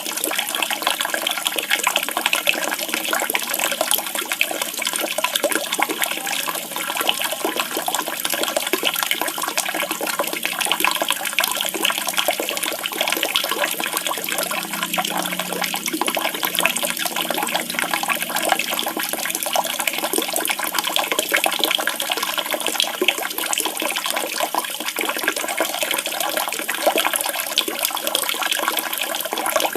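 Steady rush of running, splashing water, with no birdsong over it.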